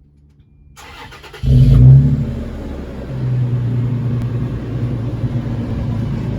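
Toyota 4Runner's 4.0-litre V6 through a Spintech aftermarket muffler, cranked on the starter and catching about a second and a half in. It flares up loudly on start-up, dips, then runs steadily from about three seconds in with a deep exhaust note.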